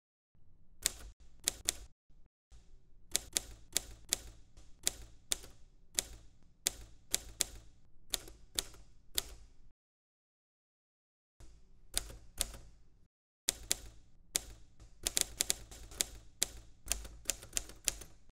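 Manual typewriter being typed on: a quick, uneven run of sharp key clacks, two or three a second. The clacks break off twice, for about a second and a half some ten seconds in and briefly a few seconds later.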